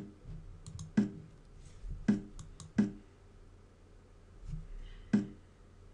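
Clicks from moves being played on a computer during a blitz chess game: mouse clicks and the chess board's move sounds. Five sharp clicks land about a second apart, the last one after a longer gap, with fainter, lighter clicks between them.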